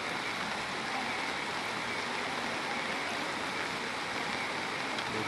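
Floodwater rushing past in a steady, even roar of water.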